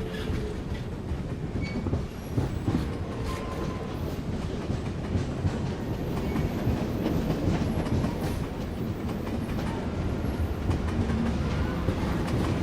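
Passenger train running on the rails: a steady low rumble with scattered clicks and clatter from the wheels.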